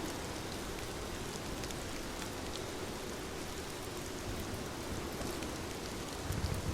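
Steady rain falling, a dense even hiss with scattered drops ticking on a surface. A low rumble swells up near the end.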